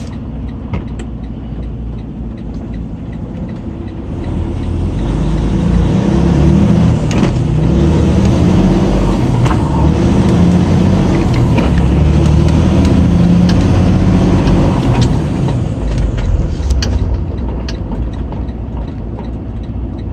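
Semi-truck diesel engine running. It picks up about four seconds in, runs louder under throttle for about twelve seconds, then eases back off near the end.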